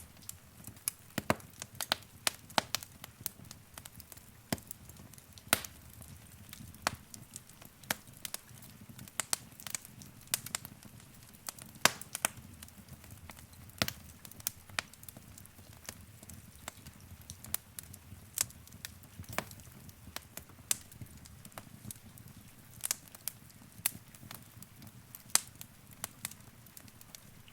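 Wood fire in a fireplace crackling: irregular sharp pops and snaps, a few each second, over a low, soft rumble of the flames.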